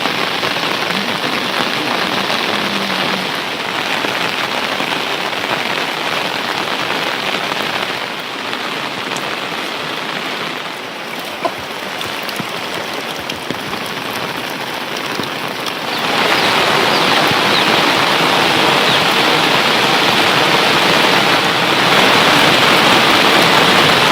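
Heavy monsoon rain falling steadily, a dense hiss of drops on surfaces that eases a little about a third of the way in and grows louder again about two-thirds in.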